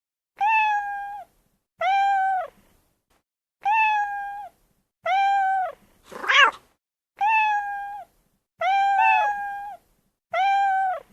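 A domestic cat meowing over and over, about one call every one and a half seconds. Each meow holds a steady pitch and drops at the end. A shorter, rising cry comes about six seconds in, and near the nine-second mark two meows overlap.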